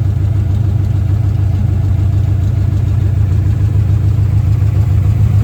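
Freshly rebuilt Chevy 350 small-block V8 in a Monte Carlo SS idling steadily, with a loud, even low pulse.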